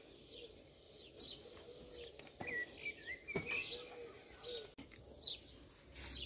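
Faint bird calls: a short, low, arched note repeated several times, with higher chirps around it. Two light clicks come about two and a half and three and a half seconds in.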